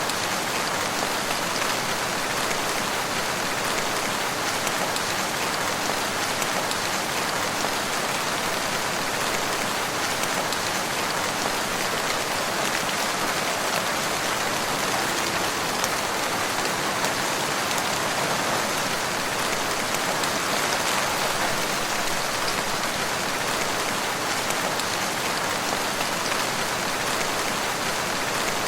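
Steady rain falling in a forest, a dense even patter of drops with no breaks.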